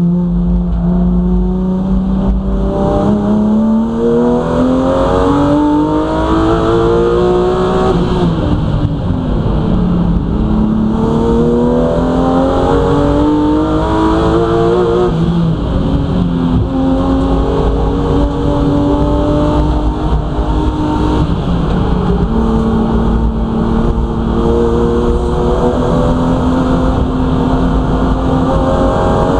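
BMW M3 race car engine heard from inside the cabin at full racing load, over a constant rumble of road and tyre noise. The engine note climbs steadily, falls sharply at about eight seconds and again at about fifteen seconds as the driver changes up a gear, then holds fairly steady.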